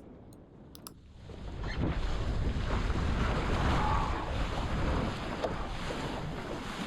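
Wind buffeting the microphone and water rushing along the hull of a small sailing dinghy under way. The noise starts low and swells up about a second in, then stays steady.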